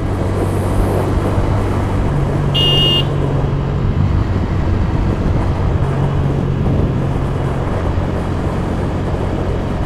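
Motorcycle engine running steadily under way, with road and wind noise. A short, high horn beep sounds about two and a half seconds in.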